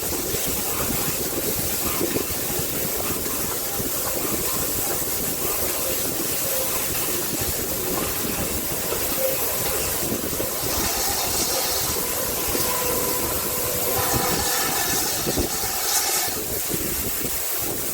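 Heritage steam train heard from aboard a carriage, running with a steady rattle and rumble of wheels on the track. About ten seconds in a hiss grows louder, and near the end a squealing tone sounds for a couple of seconds as the train approaches its stop.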